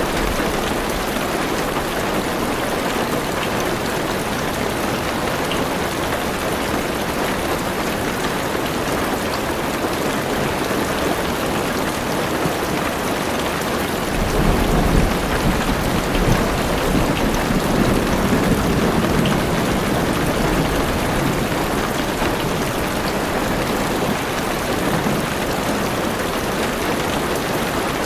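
Heavy rain falling on a car's roof and windows, heard from inside the car as a steady hiss. Low thunder rumbles in about halfway through and rolls on for some six seconds before fading.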